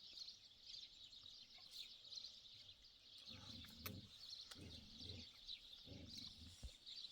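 Faint, continuous chorus of small birds chirping and twittering. A few soft, low, muffled sounds come in from about three seconds in.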